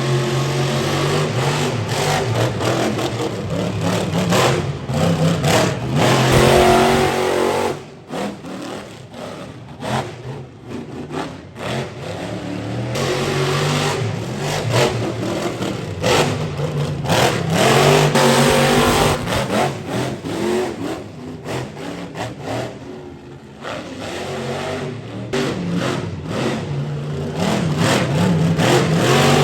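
Monster truck engine revving hard in repeated bursts, the throttle opening and snapping shut over and over, with the revs rising and falling and a few brief lulls.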